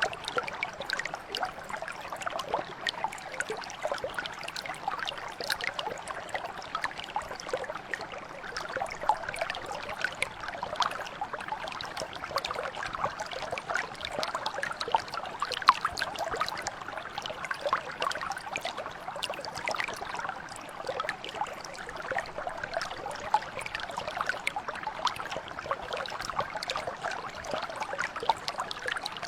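Small stream or mountain brook trickling and gurgling over stones, a steady babble of many small splashes.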